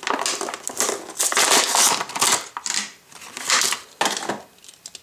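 Plastic toy packaging crinkling and crackling as it is pulled open by hand, in irregular bursts that stop near the end.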